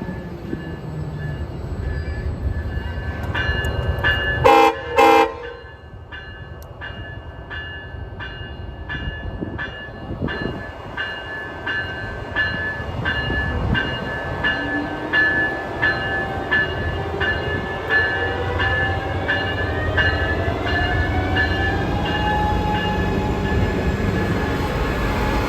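A train horn sounds two short blasts. A locomotive bell then rings about twice a second over the low rumble of the train, while a whine rises slowly in pitch as the train gets under way.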